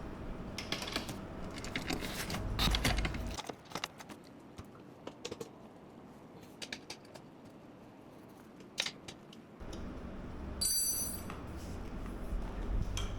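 Gaming-chair assembly noises: metal parts and bolts clicking and knocking as the tilt mechanism is fitted and fastened to the seat base, with a short high squeak about eleven seconds in.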